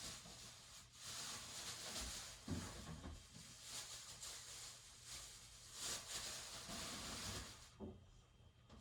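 Bioethanol fireplace flame burning with a soft, wavering hiss, with a light knock about two and a half seconds in.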